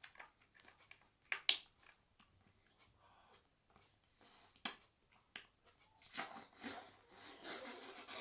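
Close-miked eating sounds: sharp mouth clicks and lip smacks scattered through, turning to denser wet chewing from about six seconds in.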